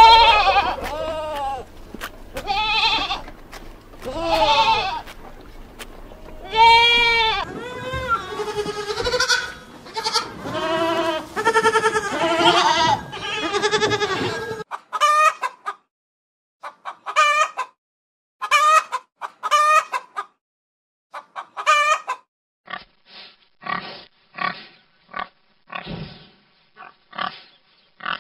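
Goats bleating, one long wavering call after another for about the first half. After that come shorter, spaced-out animal calls, and near the end piglets grunting and squealing in quick short bursts, about two a second.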